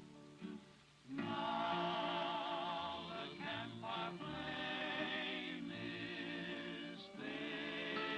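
A vocal group singing a slow song in harmony. It comes in strongly about a second in after a quieter start, with short breaks between phrases.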